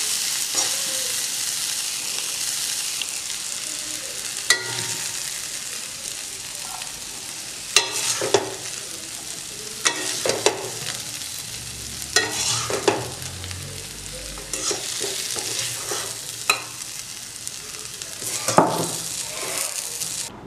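Chopped onion leaves sizzling in oil in a metal pan, with a steady frying hiss. A flat spatula scrapes and knocks against the pan about every two seconds as the greens are stirred.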